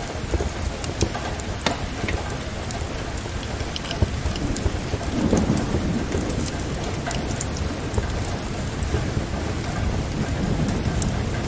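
Steady rain with the crackle of a wood fire, sharp pops scattered throughout. A low rumble of thunder swells about five seconds in and then fades.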